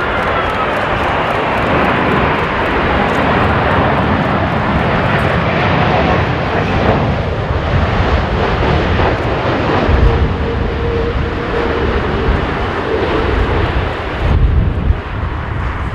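Jet airliner passing low on landing approach: a steady jet-engine roar with a whine that falls in pitch as it goes by. Strong gusty wind rumbles on the microphone, most unevenly near the end.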